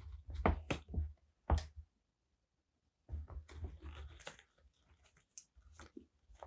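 Paper and stationery being handled on a desk: a quick run of taps and soft knocks, a short gap, then a papery rustle and a few light clicks.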